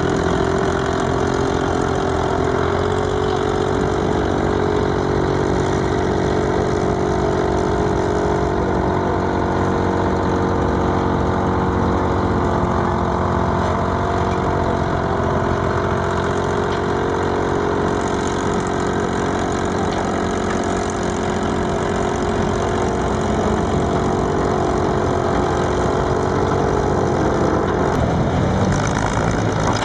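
Volvo D47 diesel engine of an Åkerman 475 cable backhoe running steadily, its note shifting about 28 seconds in.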